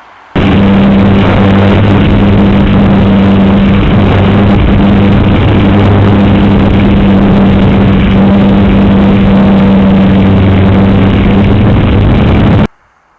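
Steady motor-and-propeller hum over heavy air rush, as heard from a camera aboard a flying RC model plane. The sound is very loud. It starts suddenly just after the beginning and cuts off suddenly near the end.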